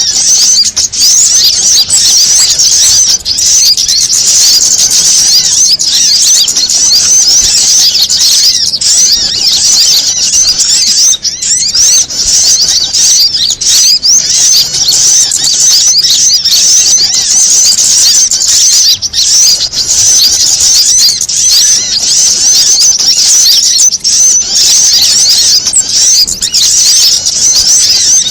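Bird-lure recording of many small birds calling at once in agitated, noisy chatter, a mix of prinia and sunbird calls with other small birds. Rapid, overlapping high-pitched chirps and trills run on without a pause.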